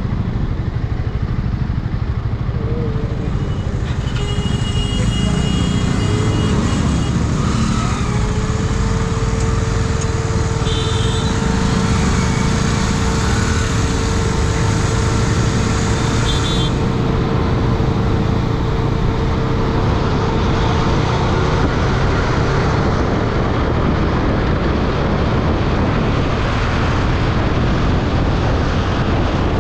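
KTM Duke 250 motorcycle being ridden through city traffic: a continuous low engine and road rumble. A steady tone is held for several seconds in the middle.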